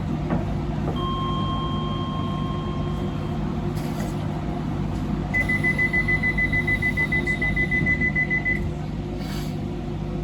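Docklands Light Railway train standing at a platform with its equipment humming steadily; about a second in a steady electronic tone sounds for about two seconds, then rapid beeping, about six beeps a second, runs for about three seconds: the door-closing warning before departure.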